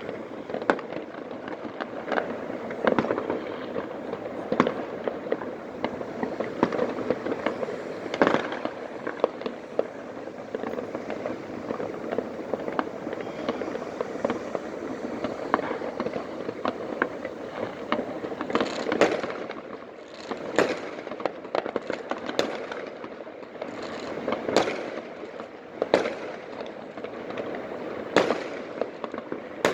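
Fireworks going off all over a city: a constant crackle of many small pops and bangs. In the last third, louder single bangs stand out, about one to two seconds apart.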